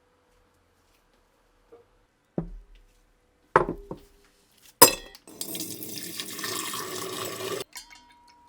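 A few sharp metallic clinks and knocks of small metal parts being handled, with a short ring after each. Then about two seconds of a steady rushing, splashing noise like running liquid, which cuts off suddenly.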